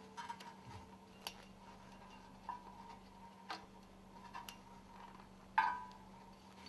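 Light metallic clicks and clinks, about one a second, the loudest just past five and a half seconds in with a short ring, as the segments of a stuffing box scraper ring and their garter spring are handled and hooked together.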